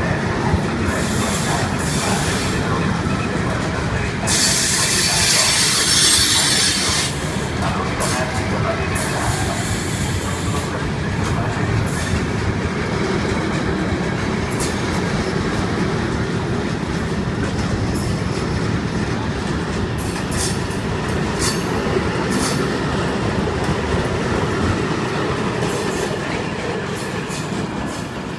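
A train rolling through a railway station: a continuous rumble of wheels on rail with frequent clicks over the joints, and a bright high-pitched wheel noise from about four to seven seconds in.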